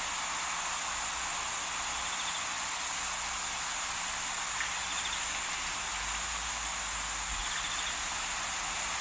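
Steady hiss of outdoor bush ambience, with a few short, faint insect trills about five and eight seconds in.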